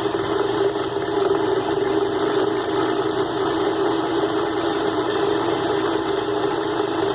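Mini lathe's DC-motor spindle running steadily at low power, with a steady hum, while a grooving tool cuts an O-ring groove in an aluminium part.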